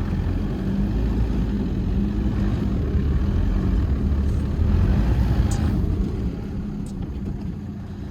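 Force Gurkha 4x4's diesel engine running at low speed on a snowy climb, a steady hum heard from inside the cabin. It drops noticeably in level about six seconds in.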